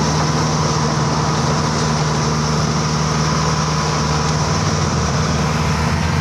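Toyota Dyna dump truck's engine running steadily at an even, idling-like speed.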